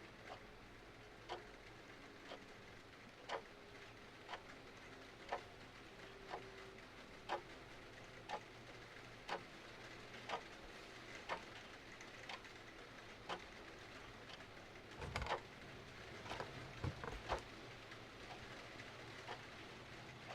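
Mantel clock ticking about once a second over a faint, steady hiss of rain, with a brief cluster of louder fireplace crackles and pops about fifteen seconds in.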